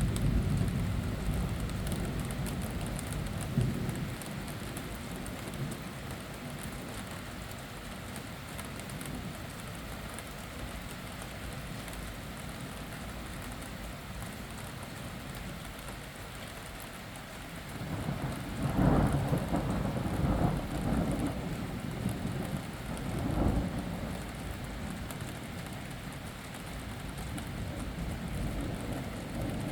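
Thunderstorm: rain falling steadily while thunder rumbles, fading out in the first few seconds, then a louder rolling peal about two thirds of the way through.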